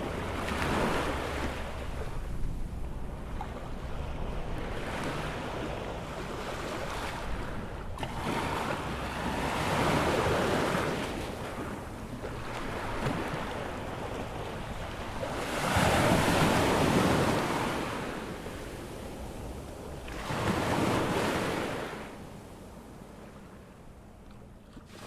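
Ocean waves breaking and washing up a sandy beach on an incoming tide, each surge rising and falling, with the biggest about sixteen seconds in. Wind rumbles on the microphone underneath.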